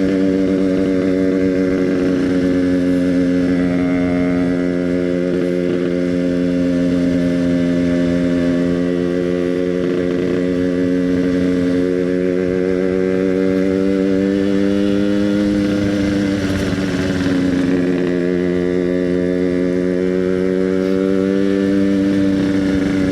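Yamaha RX-King two-stroke single-cylinder motorcycle with an EnzyProject aftermarket exhaust, running at a steady cruise. The engine note holds an even pitch, dips slightly and rises again about two-thirds of the way through.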